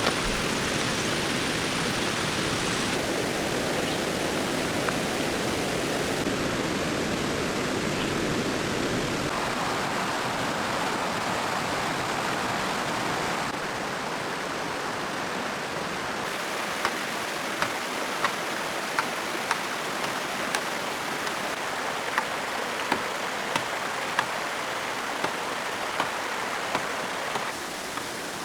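Steady rushing water noise that shifts in tone a few times. In the second half, short sharp ticks come about once a second.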